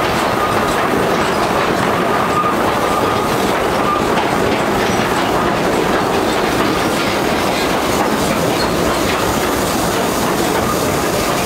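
Theme-park railway train running along the track, heard from an open passenger carriage: a steady rumble and clatter of the wheels on the rails, with a faint squeal from the wheels coming and going.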